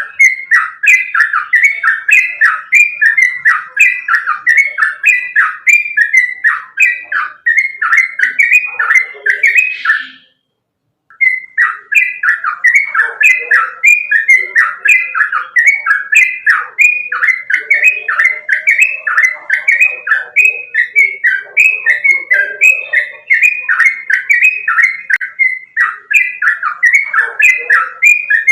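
Yellow-vented bulbul (trucukan) singing a fast, continuous run of repeated notes, the song breaking off briefly about a third of the way in and then going on.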